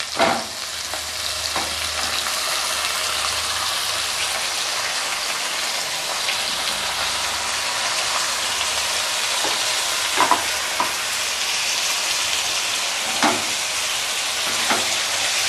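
Chicken pieces frying with onions and ginger-garlic paste in hot oil in a kadai: a steady sizzle, with a loud knock just after the start and a few short knocks of the spoon against the pan as it is stirred.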